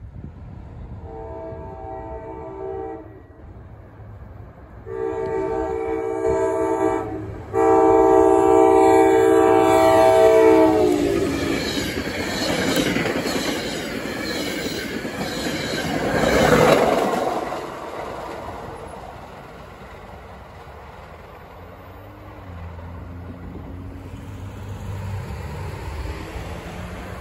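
NJ Transit North Jersey Coast Line passenger train sounding its horn for a grade crossing: three blasts starting about a second in, the last one long and sagging in pitch at its end. Then comes the clickety-clack of the wheels as the cars pass close by, loudest around the middle, fading away by about two-thirds of the way through.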